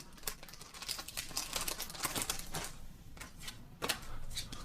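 Pokémon booster pack being handled and opened: the foil wrapper crinkling and tearing, with the cards slid out, making a dense, irregular run of small crackles and clicks.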